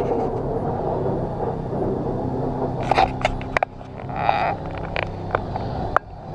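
Lorry's diesel engine running steadily, its note dropping about three and a half seconds in. Several sharp clicks and knocks come near the middle, with a short hiss between them.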